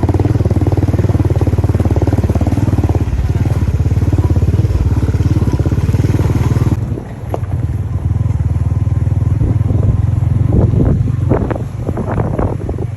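Motorcycle engine running steadily while riding. About seven seconds in, the sound changes abruptly and the high end drops away.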